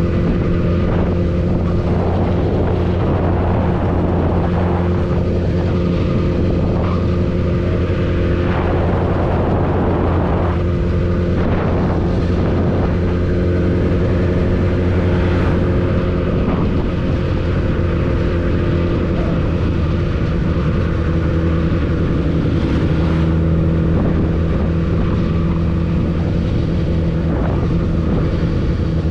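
Honda CBR1000RR's inline-four engine running at a steady speed under way, its note holding level, with short gusts of wind rushing over the microphone.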